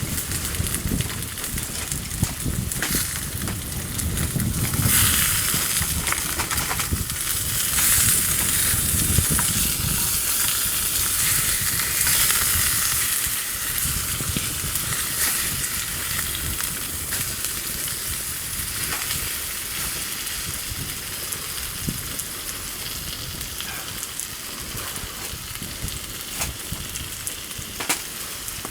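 Sizzling over a wood campfire: a steady hiss with scattered crackles and pops, loudest around the middle and easing off toward the end, with a low rumble in the first few seconds.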